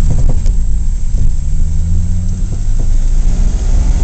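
A 1941 Plymouth's flathead straight-six engine running as the car drives along the road, heard from the back seat inside the cabin: a deep, steady drone, with a few faint knocks in the first half second.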